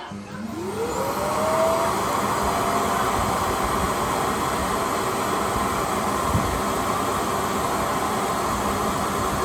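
Suction fan motor of the Mi Robot Vacuum-Mop 2 Ultra set spinning up with a rising whine over the first two seconds, then running steadily with a loud rush of air. A single low bump about six seconds in.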